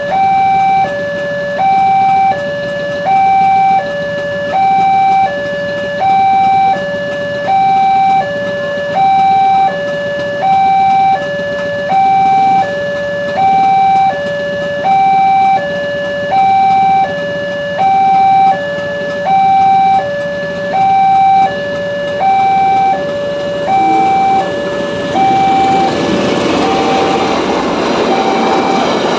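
Railroad level-crossing warning alarm sounding a steady two-tone high–low signal, the notes swapping about every half second. About 25 seconds in, the noise of an approaching train swells up under the alarm.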